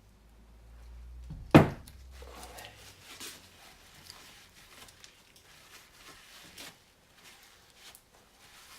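Workshop handling sounds of parts being moved on a bench: a low rumble for the first couple of seconds, one sharp knock about one and a half seconds in, then faint scrapes and light clicks.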